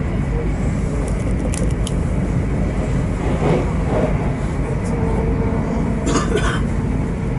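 Steady low rumble of a moving Great Western Railway train, heard from inside the carriage, with a few brief clicks.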